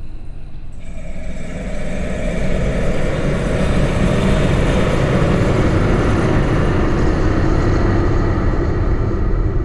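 A large spring bolted to a wooden beam, picked up by a contact mic, making a dense rumbling drone. It swells about a second in and builds to a loud, steady wall of noise.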